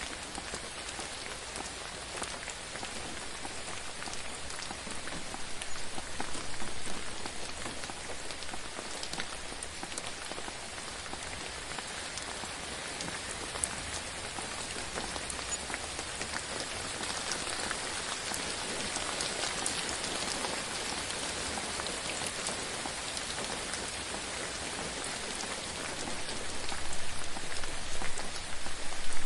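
Steady rain falling on a surface, a dense hiss dotted with small drop ticks. It swells louder about six seconds in and again near the end.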